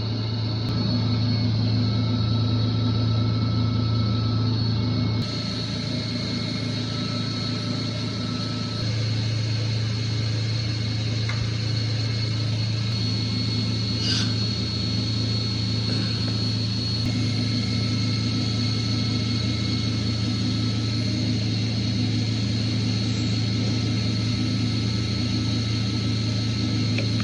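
Chiller with Turbocor oil-free centrifugal compressors running: a steady low hum with a thin, high-pitched whine above it and a few faint ticks.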